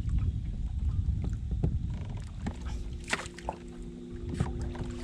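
Low rumble and scattered knocks of a kayak and gear being handled on the water. About halfway through a steady low hum joins, with two sharper knocks over it.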